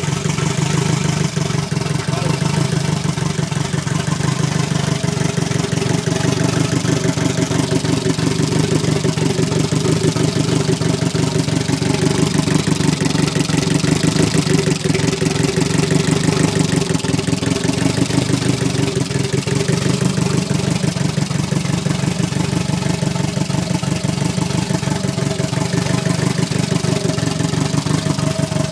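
Colt's four-cylinder engine idling steadily just after its first start-up.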